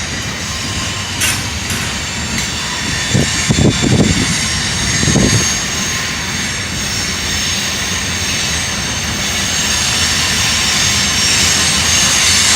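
Norfolk Southern freight train rolling past, a steady rumble of wheels on rail with a high hiss over it, growing louder near the end. A few low thumps about three to five seconds in.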